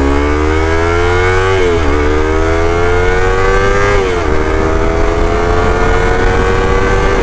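Yamaha R3's 321 cc parallel-twin engine through an Akrapovic slip-on exhaust, accelerating hard. The pitch climbs and dips twice as it shifts up, about two and four seconds in, then keeps climbing more slowly.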